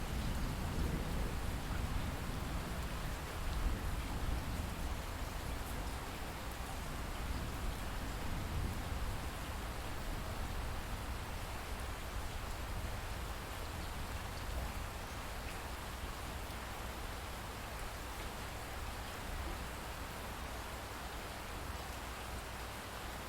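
Light, steady rain, with a low rumble of distant thunder dying away over the first few seconds.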